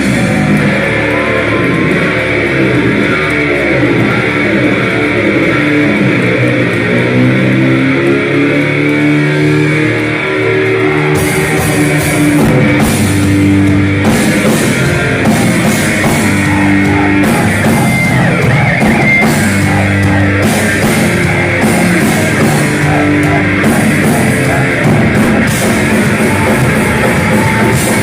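Heavy metal played by a band: distorted electric guitar riffing, with the drum kit and cymbals coming in about eleven seconds in.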